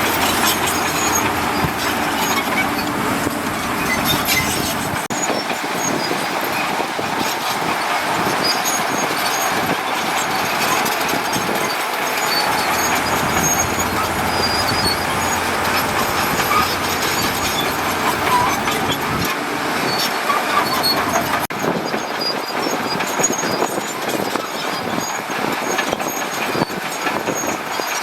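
Heavy earthmoving machinery at work: a bulldozer and dump trucks running, with a steady rough clatter and grinding of metal and stone. A low hum underneath drops away about five seconds in.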